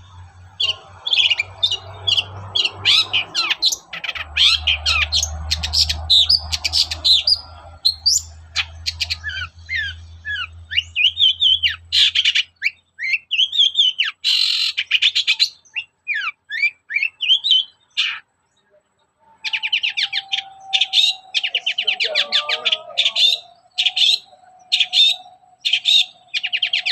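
Long-tailed shrike singing: fast, scratchy chattering and harsh notes mixed with quick down-slurred calls. After a short break about two-thirds of the way through, it goes on in rapid, dry rattling phrases.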